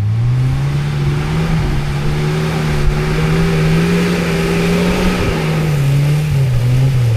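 Off-road 4x4's engine revving hard under load, its pitch climbing at the start, held high for several seconds, then dropping near the end.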